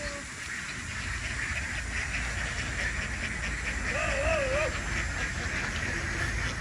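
A large flock of farmed ducks calling in a dense, steady chatter, with a low rumble underneath from about a second in. A short wavering whine stands out about four seconds in.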